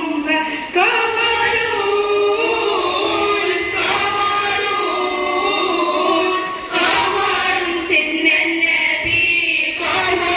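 A girl's voice singing an Arabic nasheed in praise of the Prophet, in long held notes that bend up and down in pitch.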